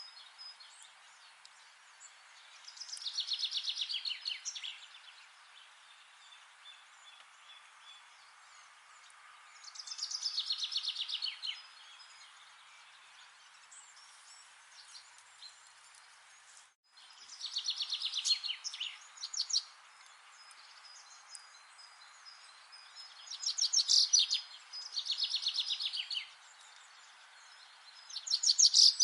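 A songbird singing short trilled phrases, each a fast run of repeated notes lasting a second or two, about six times, several seconds apart, over a steady faint hiss.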